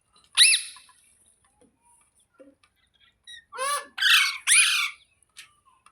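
Rose-ringed (Indian ringneck) parakeet screeching: one harsh call near the start, then three in quick succession about three and a half seconds in.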